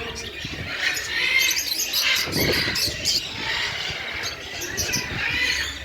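Many small birds chirping and twittering together, with a brief louder sound about two and a half seconds in.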